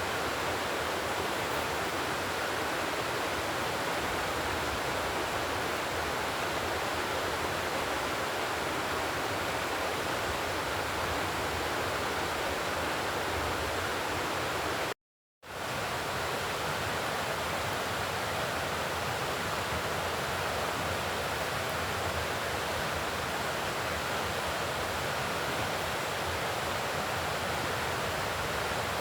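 Steady, even rushing of running water, broken by a half-second gap of complete silence about halfway through.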